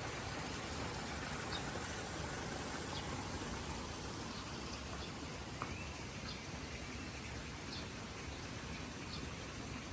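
Steady rush of running water, with a few short bird chirps now and then and a brief click about five and a half seconds in.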